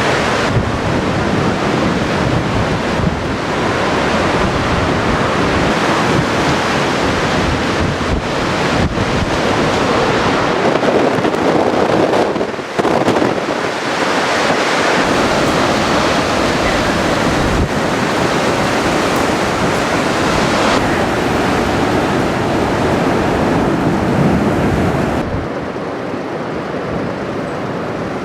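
Typhoon-force storm wind blowing hard and buffeting the microphone in a continuous dense rush. The level drops somewhat about 25 seconds in.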